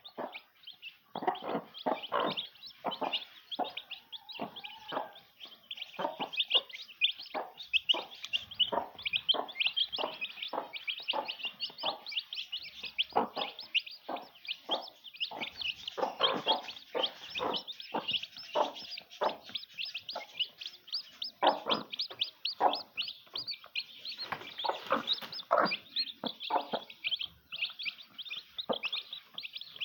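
Chickens calling: a steady stream of short, rapid chirps and clucks, one after another with no break.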